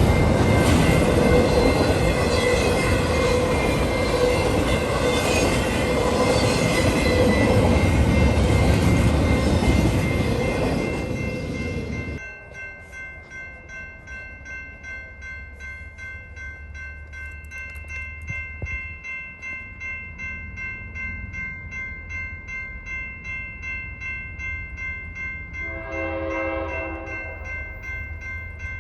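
A train passing close by, a loud steady rush of rolling noise for about twelve seconds, which then cuts off abruptly. After that, a quieter ringing of steady high tones with a regular beat continues, and a short low pitched note sounds near the end.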